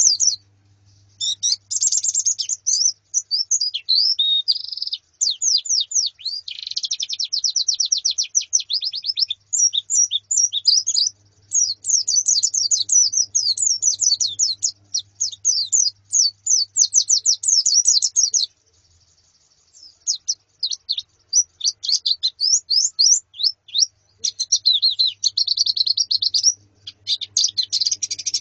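A flock of white-eyes (pleci) chirping in fast, dense runs of high, thin notes, with a short pause a little after halfway.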